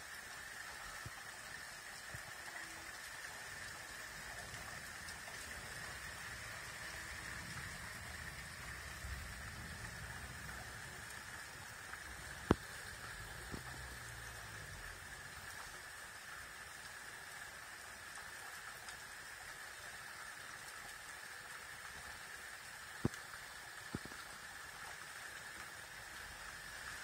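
Steady hiss of rain easing after a heavy thunderstorm, with a few sharp ticks, the loudest about halfway through and a pair near the end.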